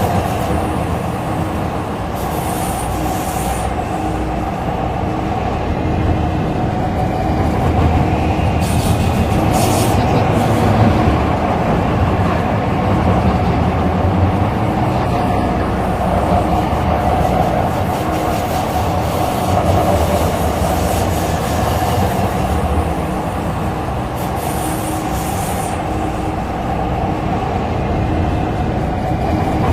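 MTR Tseung Kwan O line C-Train heard from inside the carriage while running between stations: a steady rumble of wheels on rail with a constant hum, and a couple of brief higher-pitched wheel squeals.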